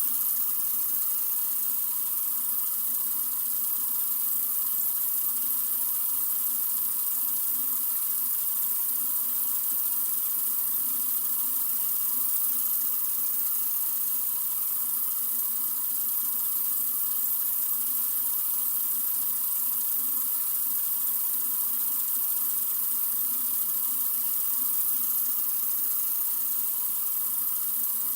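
Sink faucet running in a steady stream: an even, unbroken rush of water.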